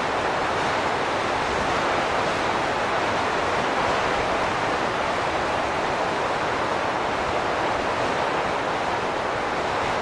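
Wind blowing steadily: an even, unbroken rushing noise, strongest in the middle range, with no gusts or pauses.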